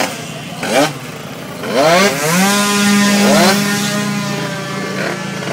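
Racing motorcycle engine revving hard as the bike accelerates, climbing through the gears with two upshifts about a second apart, then holding high revs. A steady low engine tone runs underneath.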